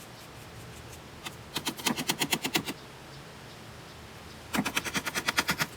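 Two bursts of rapid clicking, about ten clicks a second and each roughly a second long, from the SWDK vacuum's HEPA filter being cleaned by hand.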